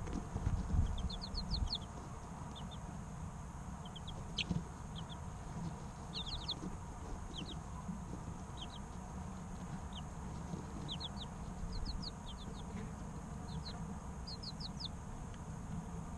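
Three-week-old chicks chirping: short, high peeps, often in quick runs of two to four, scattered throughout over a steady low rumble.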